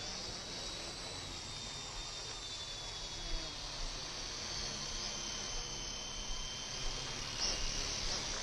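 Small electric motors of WL Toys V912 remote-control helicopters in flight, giving a high-pitched buzzing whine whose pitch drifts slowly up and down.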